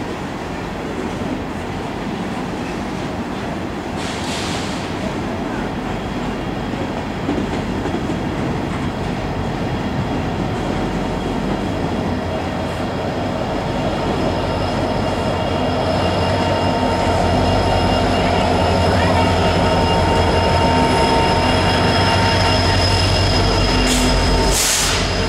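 Empty coal hopper cars rolling by with steady rail noise and wheel squeal. Then the rear distributed-power diesel locomotive draws near, and its engine drone grows louder over the last ten seconds.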